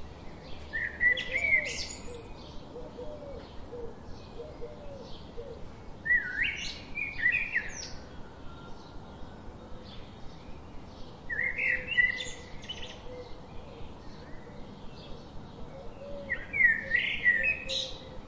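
Birds chirping: a quick phrase of bright rising and falling notes comes four times, about every five seconds, over steady rapid ticking chirps.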